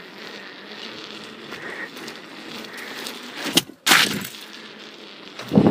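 Steady rolling noise of a bicycle ride, with two sharp knocks or cracks about three and a half and four seconds in, and a louder low thump near the end.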